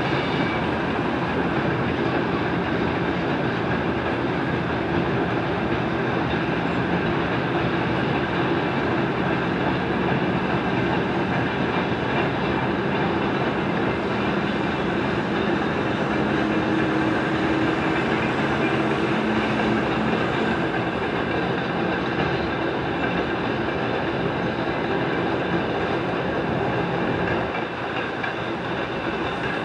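Freight train of covered boxcars rolling past, a steady rumble of steel wheels on the rails, easing slightly near the end.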